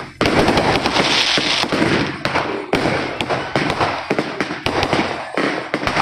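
New Year's fireworks and firecrackers going off in a dense, rapid run of loud cracks and pops, close to continuous crackling with only brief dips.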